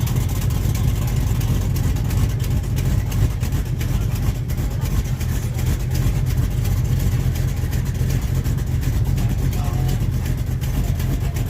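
A car engine idling with a steady low rumble and rapid even pulsing.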